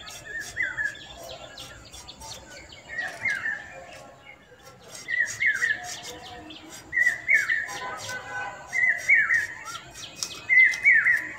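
A songbird repeating a short phrase of a few quick chirping, falling notes about every two seconds, with faint clicks and taps in between.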